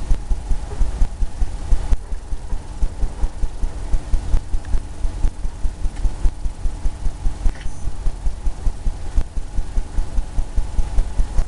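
Paintbrush working back and forth on a canvas on an easel, making a rapid run of low, muffled thumps about four a second, over a faint steady hum.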